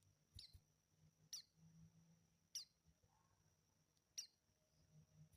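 Young white-eye (pleci) chick giving short, faint, high chirps, five of them a second or so apart, each a quick downward-sweeping note.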